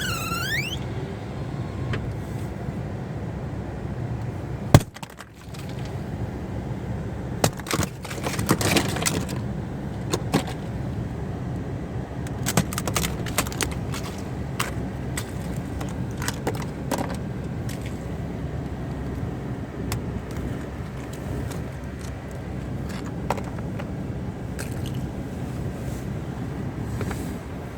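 Ice-glazed tree branches clicking, clinking and cracking in an ice storm over a steady low rumble, with one sharp loud crack about five seconds in and bursts of clattering after it.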